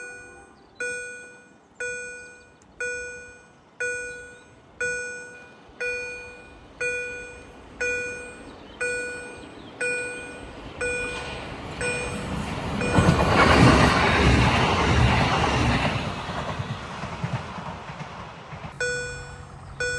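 Level-crossing warning bell dinging about once a second, then a regional train passes about twelve seconds in, its rumble and rail noise swelling for a few seconds and covering the bell. The dings come back near the end.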